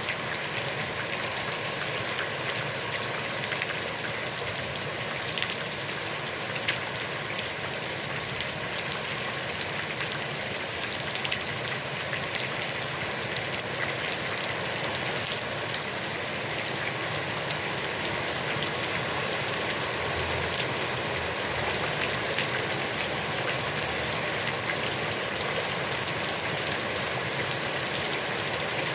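Heavy rain falling on a pond: a steady dense hiss with many separate drop splashes and patters.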